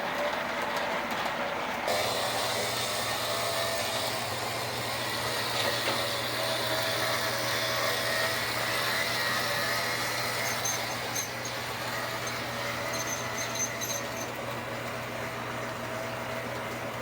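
O gauge model steam locomotive running on three-rail track: a steady electric motor whine and wheels rolling on the rails, with a low hum coming in about two seconds in and faint light ticking later on.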